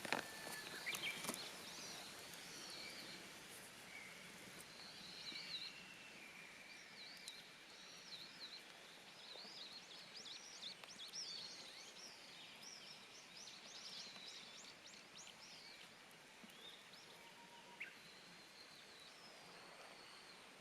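Faint birdsong: several birds calling with quick chirps and short whistles, busiest in the middle, with a few faint clicks.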